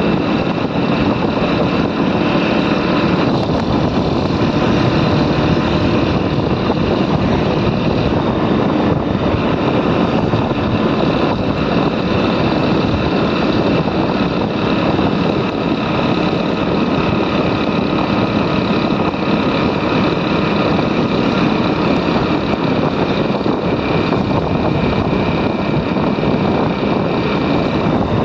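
Motorcycle running at a steady cruise, its engine sound mixed with a dense rush of wind and road noise on the mic, unbroken throughout.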